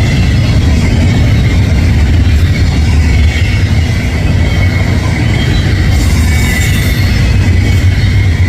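Double-stack container cars of a long freight train rolling past close by: a loud, steady rumble of wheels on rail with a thin, steady high squeal from the wheels.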